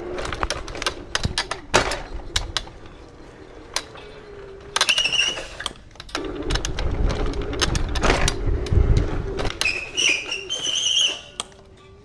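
Electric rental scooter being ridden hard: a steady motor whine that rises and falls a little, with rattling knocks and thuds from the deck and small wheels over rough ground and landings. Two brief high-pitched squeals, about five seconds in and near the end.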